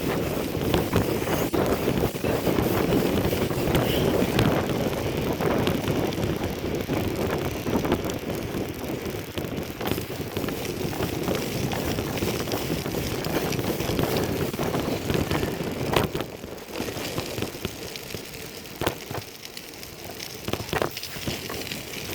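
Bicycle being ridden on a windy day: wind buffeting the microphone over the rattle of the bike, with scattered sharp knocks. It eases off about two-thirds of the way through.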